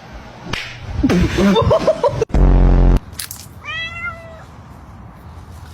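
Domestic cat vocalising: several short, wavering low calls about a second in, then one clear meow that rises and falls just under four seconds in. Between them, a loud, flat buzzing blast lasting under a second starts and stops abruptly.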